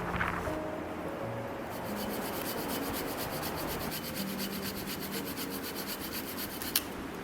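Hand saw cutting through wood in a fast, even rasping rhythm, ending with a sharp click near the end.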